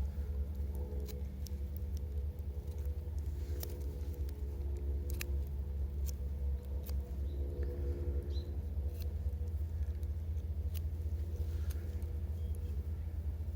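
Campfire crackling, with sharp single pops about every second or two over a steady low rumble.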